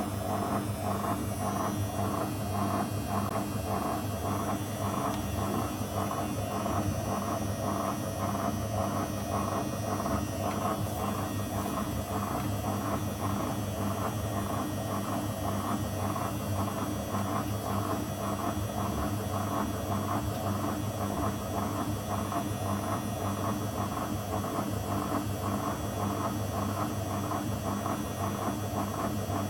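Zanussi FL984CN front-loading washing machine running its 35° wash: a steady motor hum with a fast, even pulsing from the turning drum.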